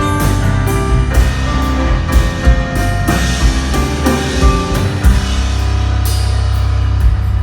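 Live band playing an instrumental passage with a full drum kit, drum and cymbal hits over held chords; about five seconds in, the drumming thins out and a low sustained chord rings on.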